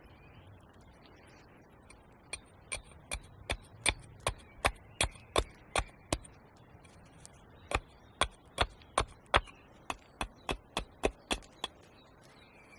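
A blade chopping into wood: sharp, even strikes about three a second, in two runs of about a dozen with a short pause between.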